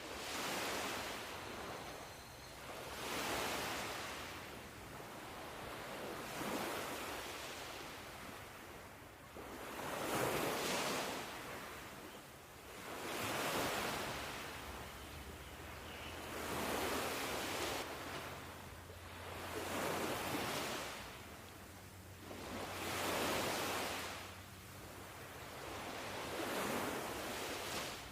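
Ocean surf: waves surging and falling away in a steady rhythm, one swell about every three seconds.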